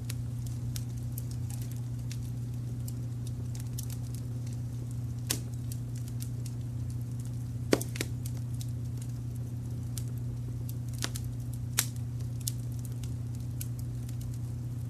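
Wood fire crackling, with scattered small snaps and a few louder pops, over a steady low rumble of brown noise.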